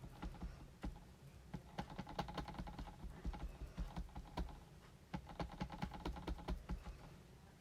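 A Memento ink pad tapped quickly and repeatedly against a rubber stamp to ink it: light tapping in two runs, with a short pause between.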